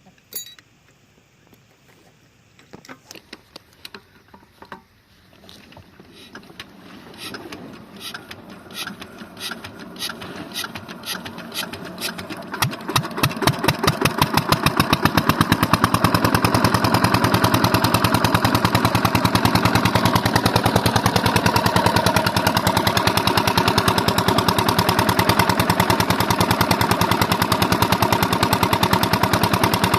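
An old Lister-type diesel water-pump engine being started. Its slow strokes begin about three seconds in and quicken and grow louder as it spins up. About halfway through it catches and runs at a steady, fast chug.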